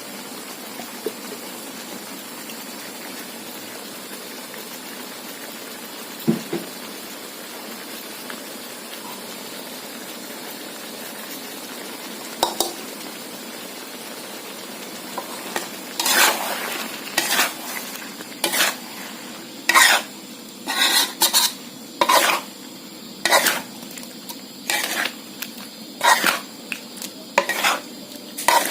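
Seafood stir-frying in a pan with curry paste: a steady sizzle with an occasional knock, then from a little past halfway a spatula scraping and knocking against the pan about once a second as the food is tossed.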